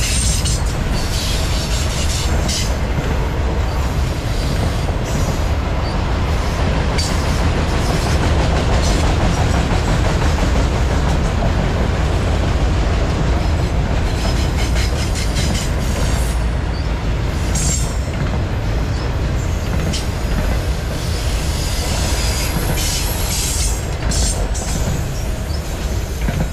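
Freight train of autorack cars rolling past: a steady heavy rumble of steel wheels on rail with clicking over the rail joints and brief high wheel squeals. It eases slightly as the last cars go by near the end.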